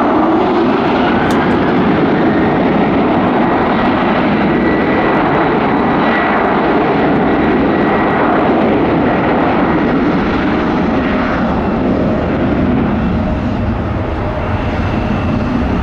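Boeing 737-900's CFM56-7B jet engines at takeoff power as the airliner departs, a loud, steady rush with a faint high whine that rises a little over the first few seconds and then holds.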